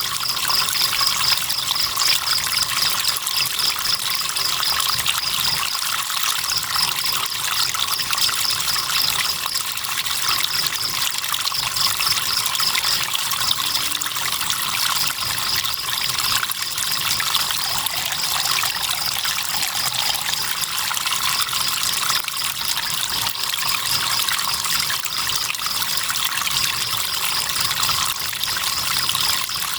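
Riverbank crickets chirping in a fast, even pulsing trill that breaks off briefly now and then, over the steady rush and trickle of flowing river water.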